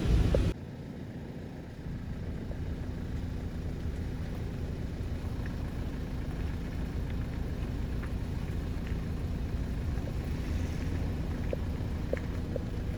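A louder sound cuts off abruptly about half a second in, leaving a steady low engine rumble from a road vehicle, with a few faint clicks near the end.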